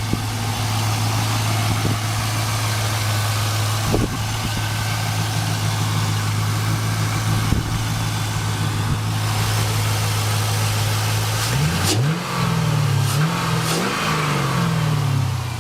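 2000 Chevrolet Camaro SS's 5.7-liter V8 idling steadily, then revved several times in quick blips near the end, the pitch rising and falling with each rev before settling back.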